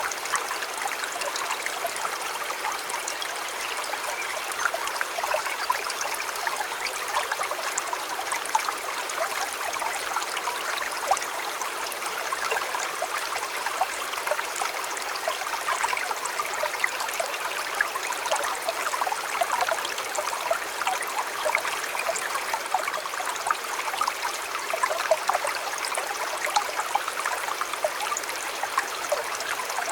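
River water flowing steadily, an even rush with constant small bubbling splashes.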